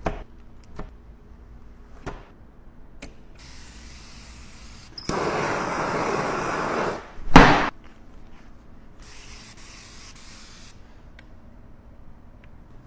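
A sprayer hissing out water onto window glass in three goes: a faint spray, then a loud spray about two seconds long, then another faint spray. A short, sharp knock comes just after the loud spray.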